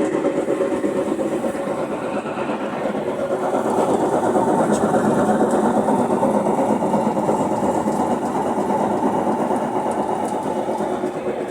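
Brastemp BWH15 washing machine running with a steady mechanical noise from its transmission (câmbio), growing louder about three and a half seconds in: noise that the owner takes for a faulty transmission.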